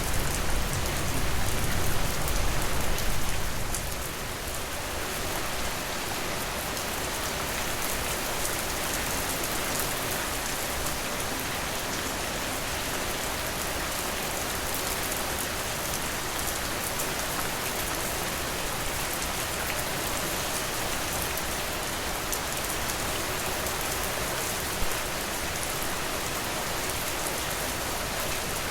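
Steady rainfall, an even hiss of falling rain, with a low rumble under it for the first few seconds that fades out about four seconds in. A single short tap stands out near the end.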